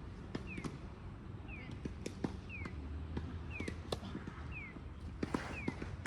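Scattered sharp pops and knocks, typical of tennis balls being struck and bouncing, over a short falling chirp that repeats evenly about once a second.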